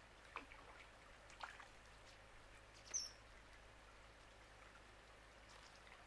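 Near silence with a few faint, short chirps; the loudest is a brief high-pitched bird chirp about three seconds in.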